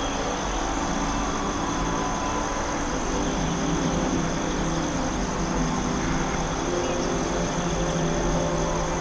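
Steady ambient soundscape: a continuous drone of held low and middle tones over a soft noisy haze, with a steady high thin tone on top.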